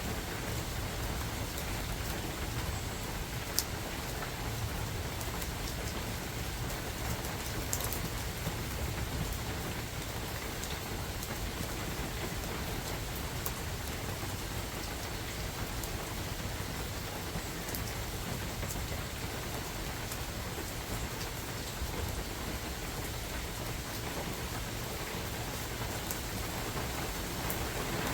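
Steady rain falling through forest, a continuous hiss with a low rumble underneath, and a few sharp drops striking close by.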